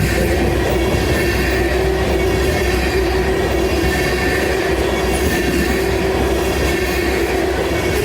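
A train rolling past steadily: a continuous rumble of wheels on rails, with a steady ringing tone held over it.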